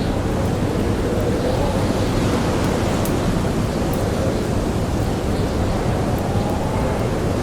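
Blizzard wind blowing as a steady, dense rush with a faint howl that wavers up and down in pitch, and a few sharp crackles of a wood campfire.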